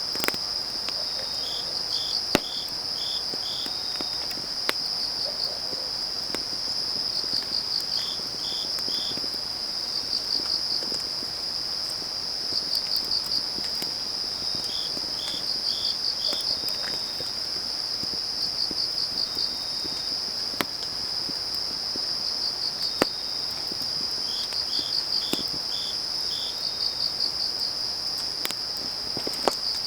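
Chorus of autumn field insects (crickets): a steady high trill with runs of quick chirps every couple of seconds, and a lower-pitched insect calling in groups of three to five notes. Occasional sharp crackles from a burning wood fire.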